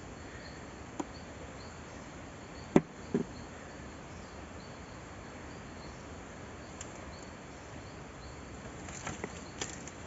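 Insects chirping steadily in a regular, fast repeat, with a few sharp clicks or snaps, the loudest about three seconds in and several more near the end.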